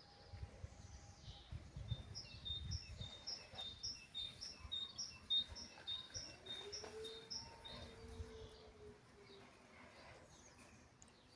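Songbirds singing in the morning, one bird repeating a short high note about twice a second for several seconds. Low rumbling in the first few seconds.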